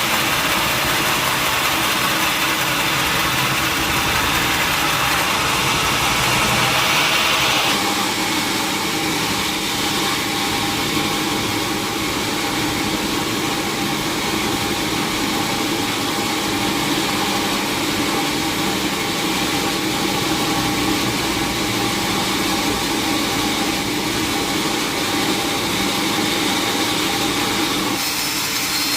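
Engine-driven sawmill machinery running steadily. The sound shifts abruptly about eight seconds in and again near the end.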